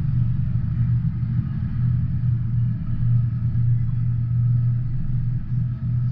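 Steady low rumble of a CSX double-stack intermodal container train's cars rolling past, muffled through window glass.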